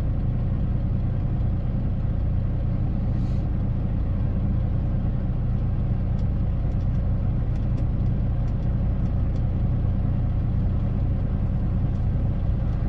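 Semi truck's diesel engine droning steadily, heard from inside the cab.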